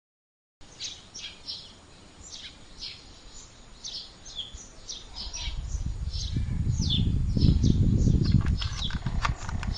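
Birds chirping, with short falling calls repeated throughout. From about halfway a low rumble builds up and becomes the loudest sound, with a quick run of clicks near the end.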